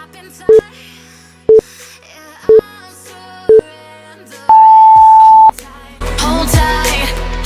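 Workout interval timer counting down: four short beeps a second apart, then one long, higher beep marking the change of interval, over quiet background music that comes back up loud about a second after it.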